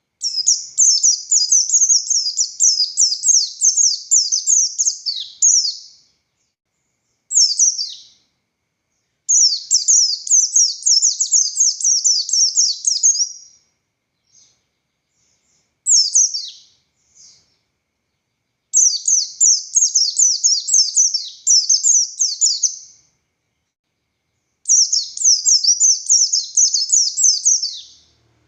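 White-eye (pleci buxtoni) singing: four long, fast phrases of high, rapid, downward-slurred notes, each lasting four to five seconds. The phrases are separated by short pauses and a couple of single sharp calls.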